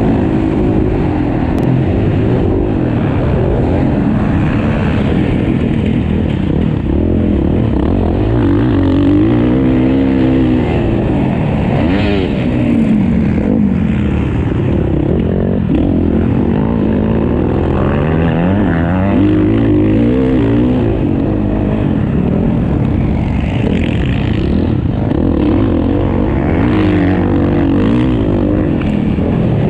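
Several motocross bikes racing, their engines revving up and falling back again and again as riders work through the track, with overlapping rising and falling engine notes throughout.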